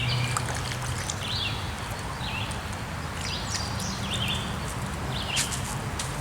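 A bird calling over and over, short high notes that each drop a step, about one a second, over a steady low outdoor rumble. A few sharp clicks come near the end.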